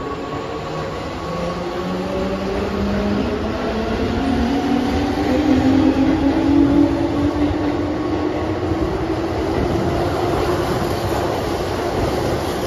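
Keihan electric commuter train pulling away from an underground station platform: the motor whine rises steadily in pitch as it accelerates over a heavy wheel and track rumble, loudest about halfway through as the cars pass.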